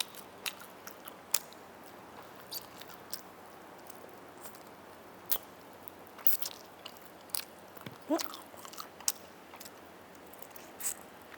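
Close-miked chewing and biting of roast chicken, with irregular sharp crunchy clicks and moist mouth sounds.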